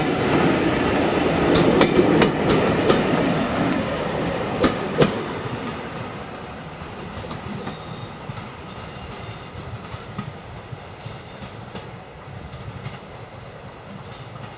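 Railway passenger coaches rolling past, their wheels clicking over the rail joints. The sound is loudest at first, with a couple of sharp clacks about five seconds in, then fades steadily as the train draws away.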